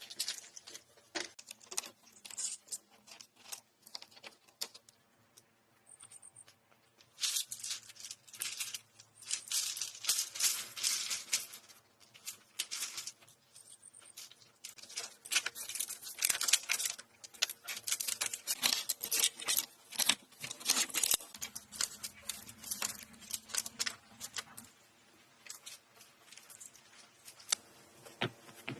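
Dry plant material, such as leaves, twigs and branches, rustling and crackling in irregular bursts as it is handled, with short quiet gaps between.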